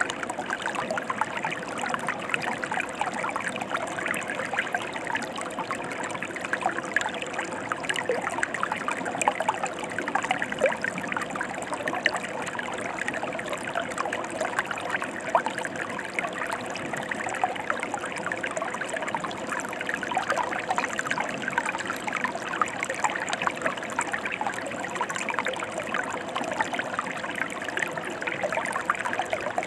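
Mountain stream flowing over rocks: a steady rush of water with constant small splashes and gurgles.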